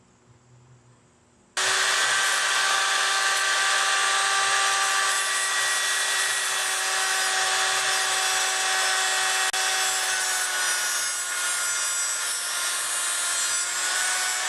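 Electric power tool running steadily under load with a harsh scraping noise, typical of wire-brushing rust off the steel bike rack. It cuts in abruptly about a second and a half in, and its pitch sags slightly later on.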